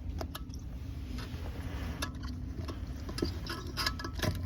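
Light irregular clicks and scrapes of a piece of solder wire being poked into the rim holes under a porcelain toilet bowl's rim to clear out dirt that is blocking them, over a low steady hum.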